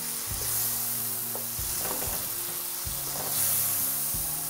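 Potato and eggplant cubes in onion-tomato masala sizzling in a nonstick kadai while being stirred with a spatula, with a few soft knocks of the spatula against the pan.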